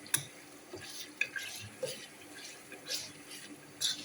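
Utensil sounds in a cooking pot: a spoon stirring and scraping through the stew with a few clicks and clinks, the sharpest just after the start.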